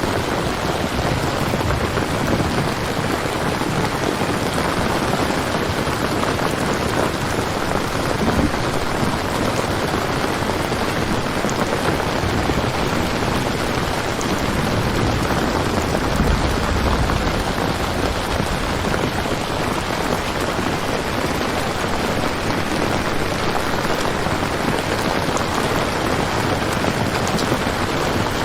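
Steady rain falling, an even hiss of drops throughout, with a low rumble swelling briefly about midway.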